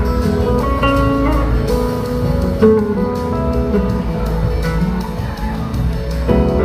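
A live rock band playing an instrumental passage. A guitar carries a melodic lead line, with some notes sliding in pitch, over bass and steady drums.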